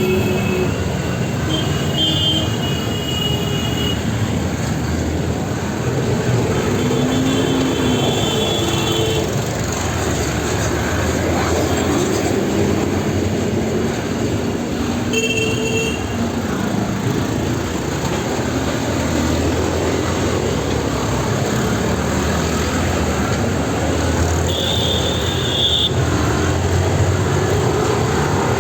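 Busy street traffic: a steady din of vehicle engines and tyres, with vehicle horns honking several times over it, the longest about two seconds long near the end.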